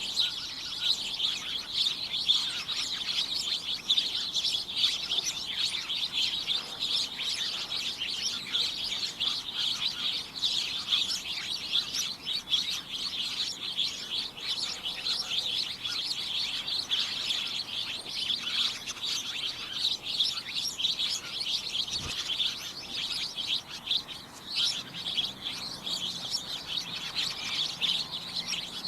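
A group of small birds chirping and tweeting continuously, many short calls overlapping in a dense, busy chatter.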